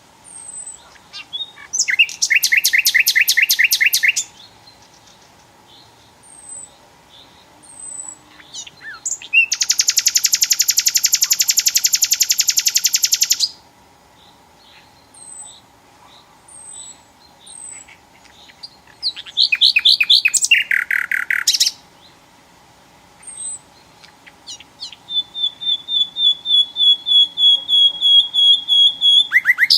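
Sikatan londo flycatcher singing: four loud bursts of fast, trilled repeated notes, each lasting two to four seconds, with short high chirps in the pauses between them. The last burst is a thinner trill of evenly repeated notes at one steady pitch.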